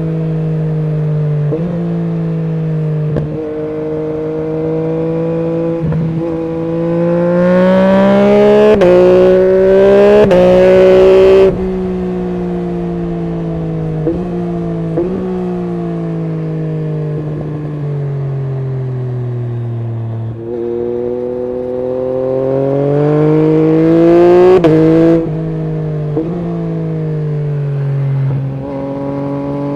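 Yamaha MT-09 SP's three-cylinder engine through an Akrapovic full exhaust system, accelerating hard twice. Each time the note rises through quick gear changes and cuts off sharply when the throttle shuts. Between the two, the note falls steadily as the bike slows.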